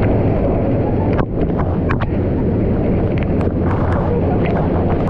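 Waterfall pouring down close to the microphone: a loud, steady, deep roar of falling water.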